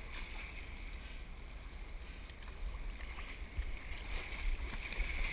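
Steady low wind rumble on the microphone over a faint wash of water and surf.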